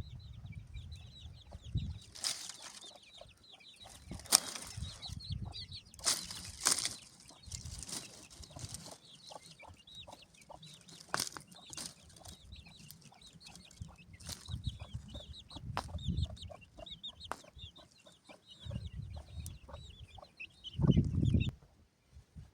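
Birds chirping steadily, with scattered knocks and clicks and a louder low thump about 21 seconds in.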